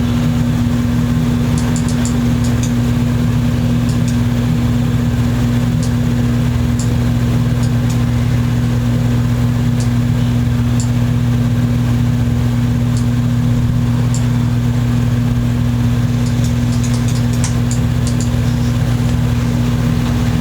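A steady low machine hum that holds one pitch throughout, with a few faint ticks over it.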